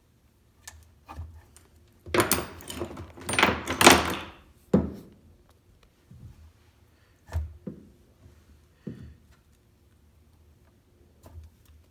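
Rattling and scraping of a jet ski's carburetors being worked loose from the engine, about two seconds long, followed by a sharp knock and a few lighter knocks as the parts shift and are handled.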